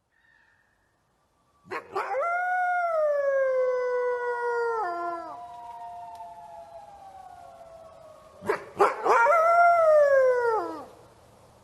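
Hunting hound howling: two long howls, each rising sharply at the start and then sliding down in pitch, the first about two seconds in and the second near the end, with a fainter falling howl trailing after the first.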